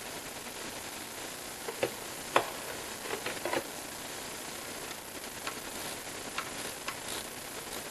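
A few short clicks and light knocks, as of tools or parts being handled on an engine, over a steady hiss. The loudest knock comes about two and a half seconds in, followed by a quick cluster of clicks.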